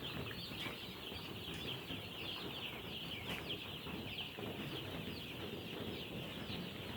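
A brood of day-old broiler chicks peeping constantly, many high, short peeps overlapping into a steady chorus.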